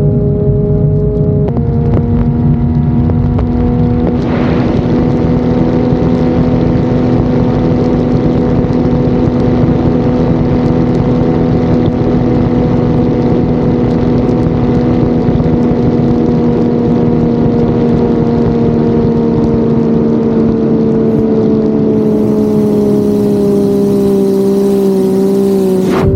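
Turbocharged Ford Barra 4.0-litre inline-six in a race boat running hard at steady revs. Its pitch steps up about a second and a half in, holds, and drops slightly over the last few seconds, with a hiss joining near the end.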